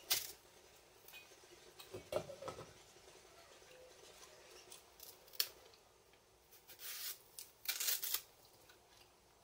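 A knife cutting and scraping the peel off green matooke bananas: irregular short slicing strokes, the sharpest right at the start, about five seconds in, and a cluster near eight seconds.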